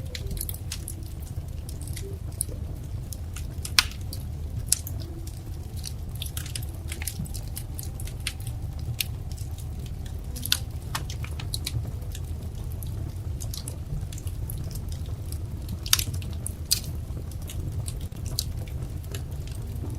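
Wood fire crackling, with scattered sharp pops over a steady low rumble; the loudest pops come about four seconds in and again about sixteen seconds in.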